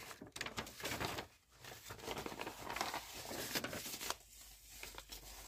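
Paper instruction pages rustling and crinkling as they are handled and turned, in irregular scrapes and crackles that die down about four seconds in.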